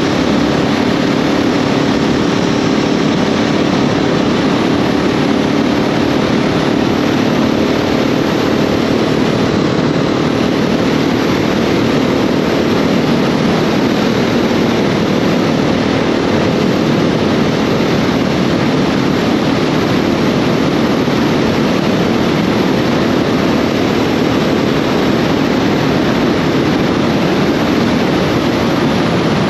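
KTM 690 SMC R's single-cylinder engine running steadily while riding, with a constant rush of wind and road noise over it.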